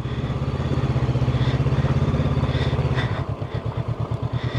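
Honda CB500X parallel-twin motorcycle engine running steadily at low revs. About three seconds in it drops to a slower, evenly pulsing idle.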